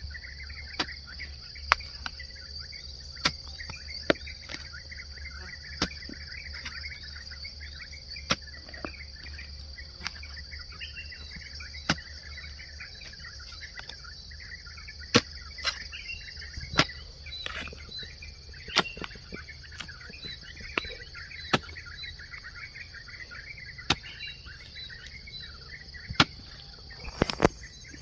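Hoe blade chopping into soil in irregular strokes about every one to two seconds, over birds chirping and a steady high insect drone.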